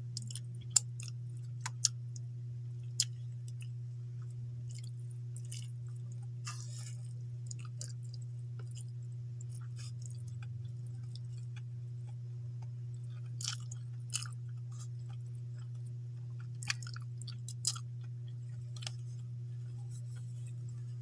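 A person chewing a mouthful of rice and fish eaten by hand, with scattered sharp mouth clicks and smacks, over a steady low hum.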